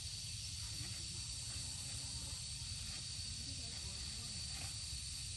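Steady outdoor hiss with one constant thin high tone over a low rumble, and faint voices talking in the background.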